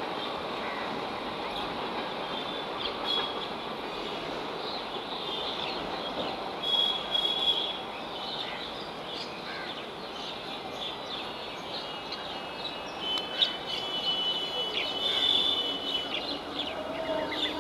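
Steady rumble of a suburban electric local train and a passenger train running side by side on parallel tracks some distance off, with birds chirping over it.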